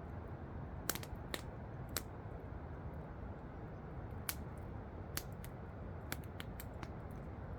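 Campfire crackling, with sharp irregular pops and snaps over a steady rush of falling water from a waterfall.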